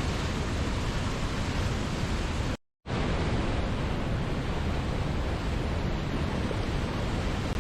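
Steady rushing noise of a waterfall, even and unchanging, that cuts out to silence for about a quarter of a second about two and a half seconds in, then carries on.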